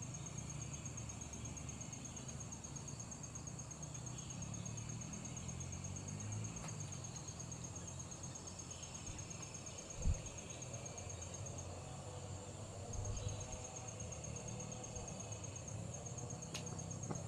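An insect trilling steadily at a high pitch with a fast, even pulse, breaking off briefly about two-thirds of the way through, over a low outdoor rumble. A single sharp thump comes about ten seconds in.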